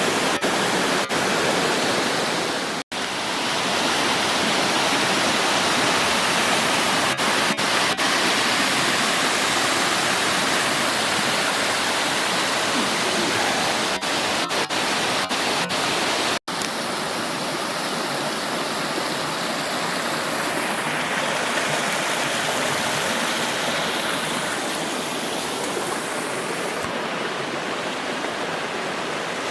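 Steady rush of water falling down the cascades of the All Saints Waterfalls, cut off for an instant twice.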